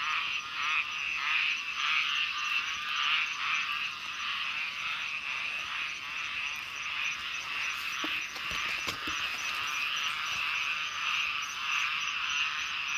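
Chorus of small pond frogs calling: many overlapping, rapidly pulsing croaks.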